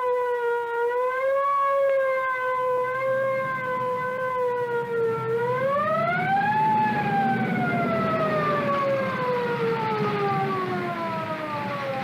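A single siren-like wailing tone. It wavers slowly at first, rises quickly about halfway through, then slides slowly down in pitch.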